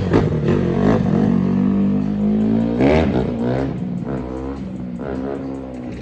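Dirt bike engine revving: the pitch climbs sharply about three seconds in, then drops back and keeps rising and falling with the throttle.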